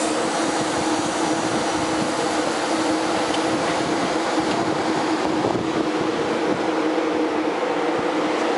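CPTM Series 2100 electric multiple unit running, a steady noise with a constant low hum.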